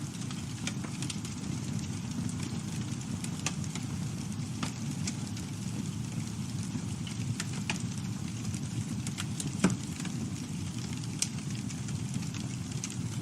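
Campfire burning: a steady low rush of flames with scattered crackles and pops from the burning wood, one louder pop about two-thirds of the way through.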